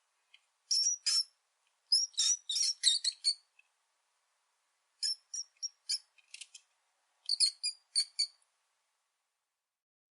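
Rat squeaking: short, high-pitched squeaks in quick runs of several at a time, four runs separated by pauses.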